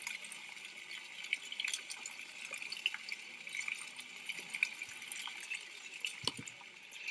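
Steady rush of running water with small splashes and drips, cutting off suddenly near the end.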